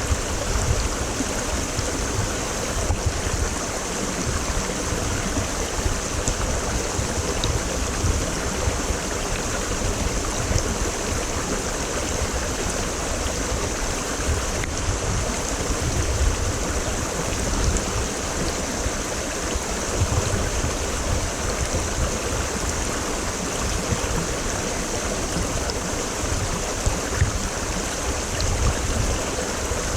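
Mountain stream flowing steadily over rocks, a continuous rushing with a low rumble underneath.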